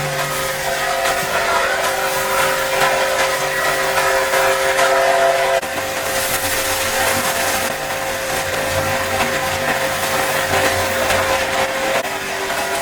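An electric cleaning machine's motor running steadily, a constant hum over a hiss, which changes abruptly about halfway through and again near the end.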